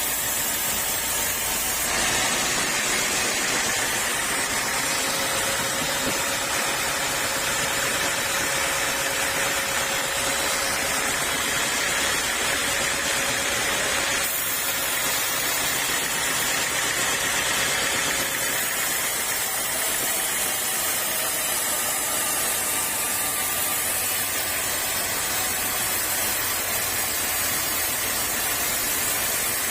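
Sawmill saw and its motor running, a loud steady rushing noise with no clear rhythm. The sound changes abruptly at about two seconds in and again at about fourteen seconds.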